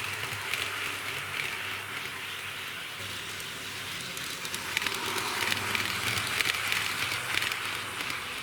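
HO-scale model diesel railcar running along the track: a steady rattling hiss of metal wheels on rail with rapid small clicks over the rail joints. It grows louder from about five seconds in.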